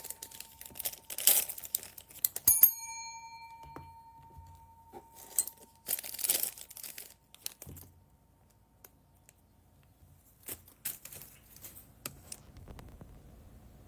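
Thin plastic bags crinkling and tearing open in irregular bursts. A steady bell-like ring sounds in the first few seconds, breaks off once and rings again.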